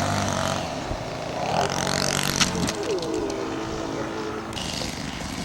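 Radio-controlled model airplane engine running, its pitch gliding down and back around the middle as it changes speed. There is a short sharp click about halfway through.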